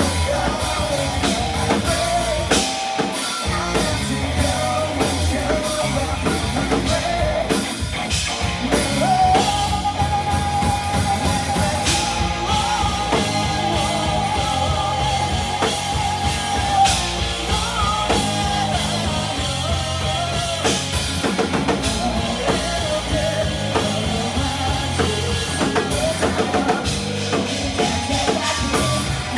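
Live rock band playing: drum kit, guitar and singing, with one note held for several seconds near the middle.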